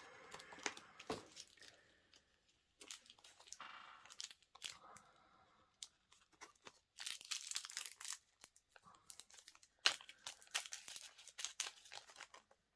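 Faint crinkling and crackling of small plastic bags being handled, in irregular bursts with short quiet gaps.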